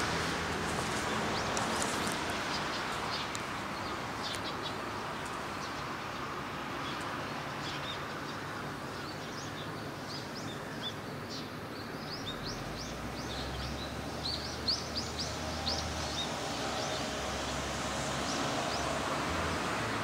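Small birds chirping in many quick, short, high calls, thickest around the middle and later part, over a steady rushing background noise.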